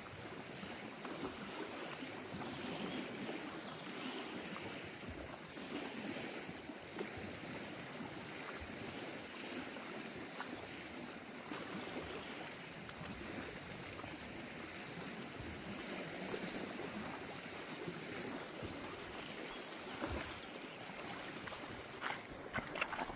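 Steady wash of lake water, with wind, and a few sharp clicks or knocks near the end.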